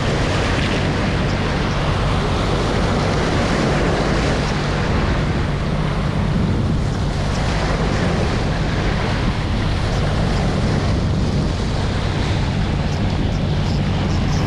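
Strong wind buffeting the microphone in a steady low rumble, over the wash of sea waves.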